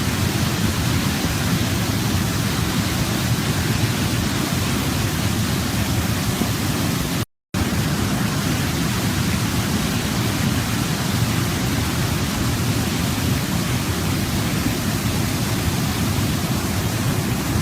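Waterfall: a steady, even rush of falling water, deepest in the low range, that cuts out to silence for a moment about seven seconds in.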